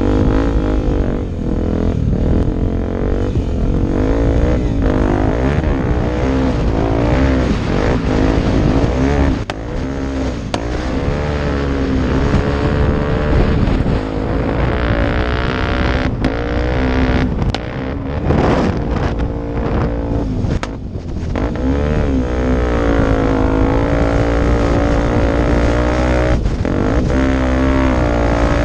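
Off-road motorcycle engine running under load, its revs rising and falling over and over as the bike is ridden, with a heavy low rumble. Around two-thirds of the way through the revs drop off briefly several times with a few sharp knocks before the engine pulls steadily again.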